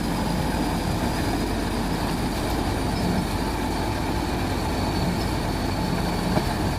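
Heavy truck's diesel engine running steadily under load on a muddy road, a continuous low hum with no marked revving.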